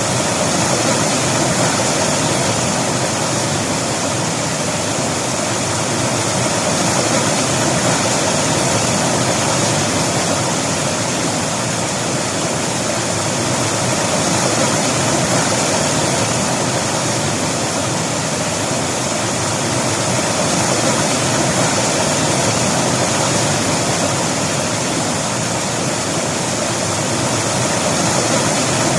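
River water rushing and splashing, a steady loud flow with a slow gentle swell in level.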